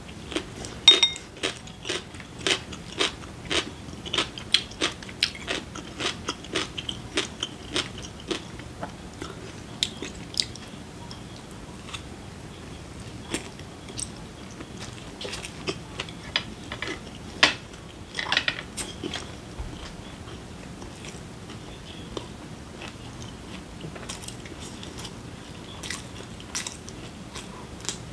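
A person chewing food close to the microphone: crunchy bites and sharp wet mouth clicks, about two a second for the first eight seconds, then more scattered, with a short cluster of crunching about two-thirds of the way through.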